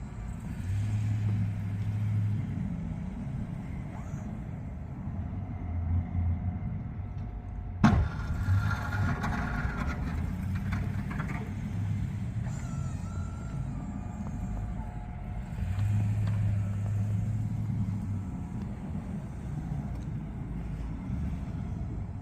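Truck engine running with a steady low rumble that grows louder for a couple of seconds near the start and again about sixteen seconds in; a single sharp click about eight seconds in.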